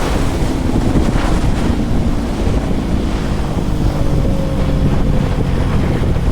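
KTM Duke 390 Gen 3's single-cylinder engine running through an Arrow aftermarket exhaust at a steady riding speed, its note easing slightly lower. Heavy wind noise buffets the camera microphone.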